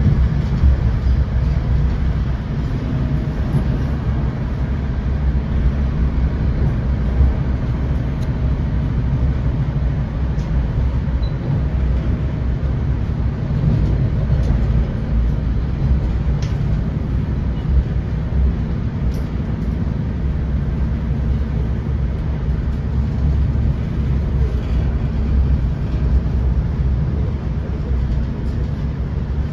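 Steady low rumble of an NJ Transit Comet coach running along the track, heard from inside the passenger car, with a few faint clicks and squeaks from the car body.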